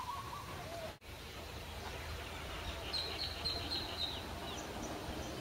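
A small bird chirping a quick run of high notes about three seconds in, over steady outdoor background noise with a low rumble.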